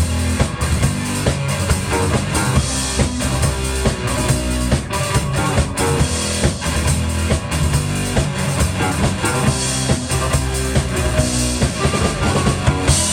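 A live rock band plays an instrumental passage, with a steady drum-kit beat over bass and guitar.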